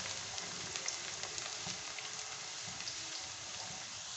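Sliced onion and crushed garlic sizzling in hot oil in a wok while being stirred: a steady frying hiss dotted with small crackles, the tempering (tadka) stage of the cooking.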